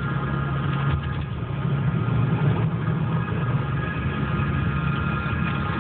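Car engine running steadily: a constant low hum with a few higher steady tones over it.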